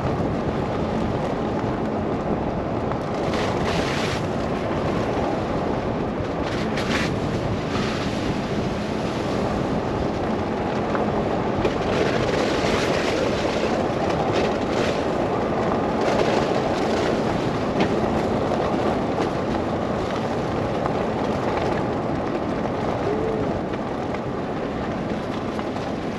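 Blizzard wind rushing over the microphone of a car driving through snow. It is a dense, steady rush with a low rumble underneath, and several brief, hissier gusts.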